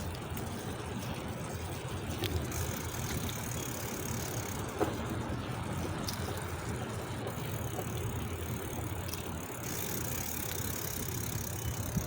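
Wind rushing over the microphone and tyre noise while riding a bicycle, steady throughout, with a single faint click about five seconds in.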